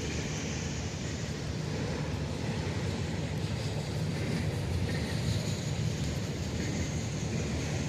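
Freight train rolling past with a steady, even rumble of wheels on rail.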